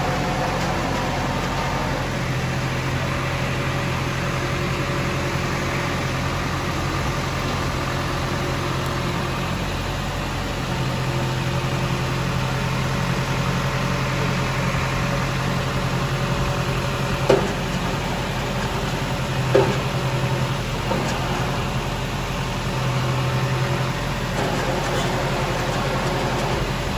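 Vehicle engine running steadily with a low hum, with two short sharp knocks about two-thirds of the way through.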